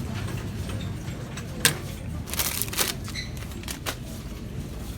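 A few sharp clicks and rattles from items being handled while grocery shopping, the loudest just under two seconds in and a quick cluster soon after, over a steady low store hum.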